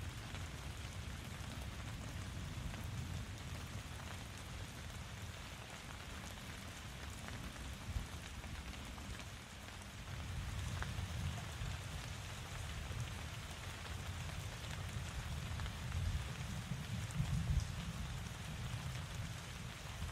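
Steady rain falling on surfaces, an even hiss with a low rumble underneath and a few louder drops now and then.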